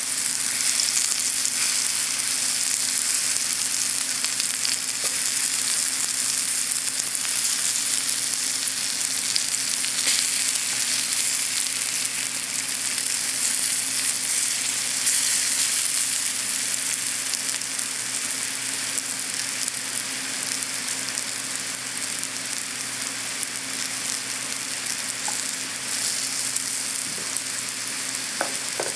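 Pieces of roasted sweet potato sizzling steadily as they fry in a pan, with small crackles throughout. The sizzle eases slightly over the second half.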